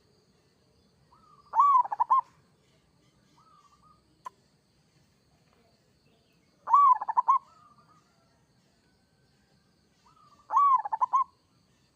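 Zebra dove (perkutut) cooing its song three times, evenly spaced, each phrase a rising-and-falling note followed by a quick run of short rolling notes. There are softer single coos between the phrases and a single sharp click about four seconds in.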